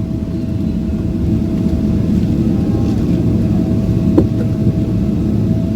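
Steady low rumble inside the cabin of a Boeing 777-300ER on the ground after landing, with a faint steady tone over it and a single click about four seconds in.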